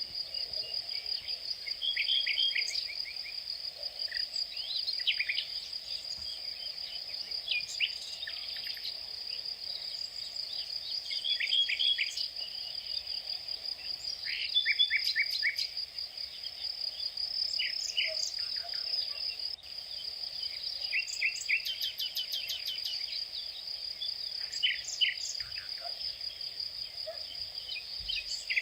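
A steady, high-pitched insect trill, with short bird chirps and calls breaking in over it again and again.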